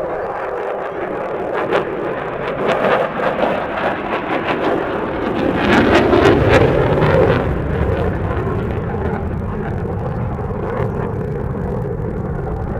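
Airplane engine noise building to its loudest about six seconds in, then easing off as the aircraft passes.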